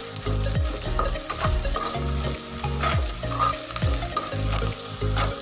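Chopped onion, green chilli and garlic sizzling in hot oil in a pan, with a spatula stirring and scraping them around.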